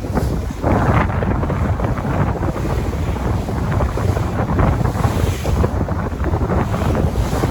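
Sea waves washing, with wind buffeting the microphone in a low rumble; the surf surges about a second in and again near the end.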